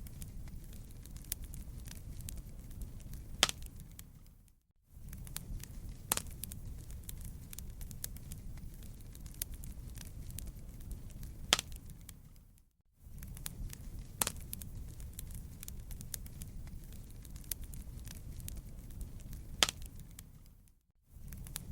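Wood fire crackling, with scattered sharp pops over a low steady rumble. The sound dips to silence for a moment three times, about every eight seconds, where the loop restarts.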